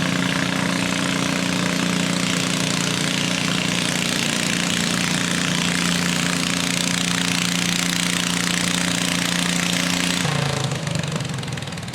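Garden tractor engine running hard at steady high revs during a pull, then throttling back about ten seconds in.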